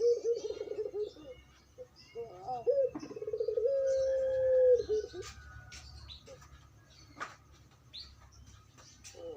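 Puter dove (domestic ringneck dove) cooing in the long, drawn-out 'crying' style: a quavering coo, a few short bending notes, then one long steady note held for about a second and a half that breaks into a trill. Quieter for the last few seconds, with faint chirps, before the next coo begins right at the end.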